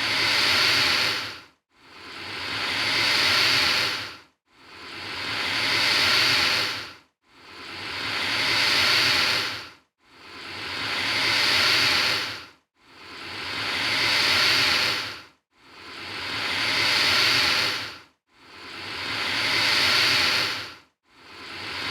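Alligator hissing, one breathy hiss after another at even spacing, about every two and a half to three seconds; each swells up and then cuts off sharply.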